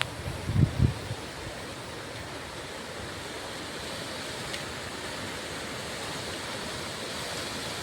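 Wind blowing: a steady rushing noise, with a few low buffets on the microphone in the first second.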